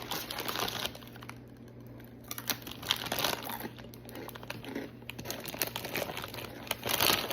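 Plastic snack-chip bag crinkling and rustling in irregular bursts as it is handled, quieter for a moment about a second in.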